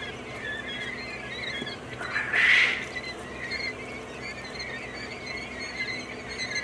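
A flock of quail calling, many short high chirps overlapping continuously, with one louder burst about two and a half seconds in.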